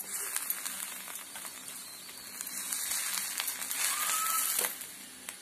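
A paneer paratha frying in oil in a nonstick pan: the oil sizzles and crackles, growing louder about halfway through as the oil is spread over it with a spoon.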